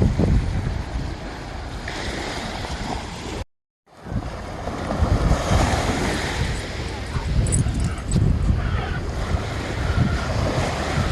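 Wind buffeting the microphone over the wash of water, cutting out completely for a moment a little over three seconds in.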